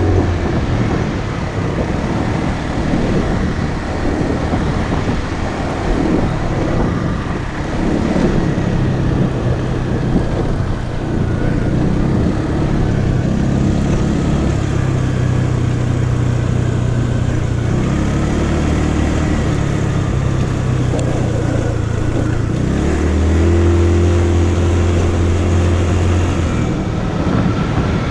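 Motorcycle engine running while riding, its pitch stepping up and down with throttle and gear changes, then holding steady revs for a few seconds near the end.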